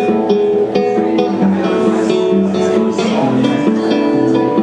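Live band playing the opening of a song, with a strummed guitar leading and bass notes coming in about three seconds in.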